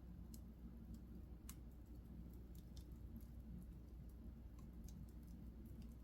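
Wood fire in a fireplace crackling faintly, with sharp irregular ticks and pops, the strongest about one and a half seconds in, over a steady low hum.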